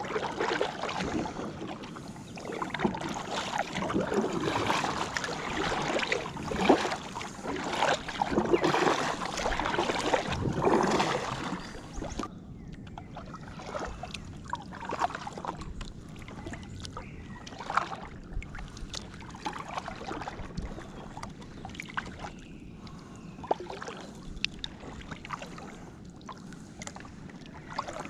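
Kayak paddling on a river: paddle strokes dipping and splashing, with water washing along the hull. About twelve seconds in the splashing suddenly falls away to quieter water with scattered drips and small knocks.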